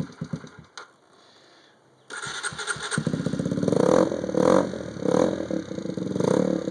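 Honda CBR 125's single-cylinder four-stroke engine dies away in the first second, goes near quiet for about a second, then restarts about two seconds in and runs, revved up in several short blips.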